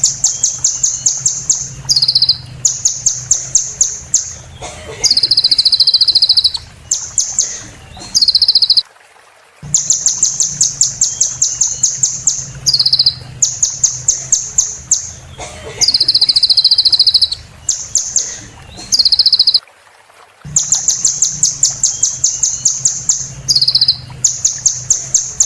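Sunbird song: rapid, high-pitched trills and strings of chips in phrases. The same sequence repeats about every ten seconds after a brief break, over a low steady hum.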